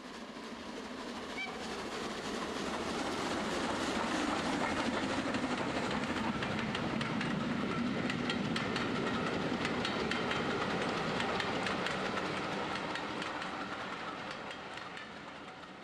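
A train running on rails, its wheels clicking steadily over the rail joints; the sound swells over the first few seconds and fades away near the end.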